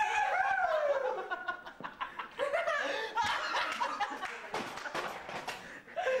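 People laughing hard in broken, pitch-swooping bursts, with a few sharp clicks and knocks among them.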